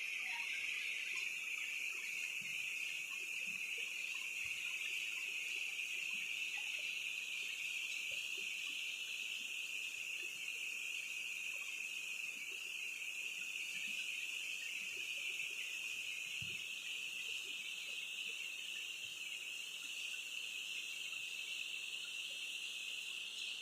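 Steady, high-pitched chorus of insects such as crickets, running unbroken at a constant level.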